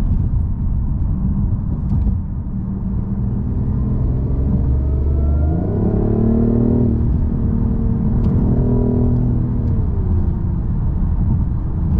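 Steady cabin rumble of a BMW i8 hybrid, whose engine is a small turbocharged three-cylinder, with some of its sound piped through the cabin speakers. Partway through, the engine note rises steeply as the car accelerates, holds for a few seconds, then drops away.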